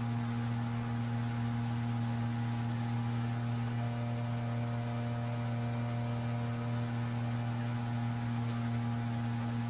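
Jet boat's outboard engine running at steady revs: a constant, even drone.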